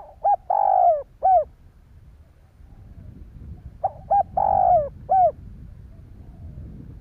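Spotted dove cooing: two calls about four seconds apart, each two short coos, a long coo and a short closing coo.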